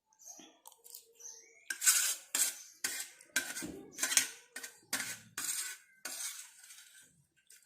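Cutlery clinking and scraping against a dish during a meal, in a run of quick strokes through the middle, the loudest near the start of the run.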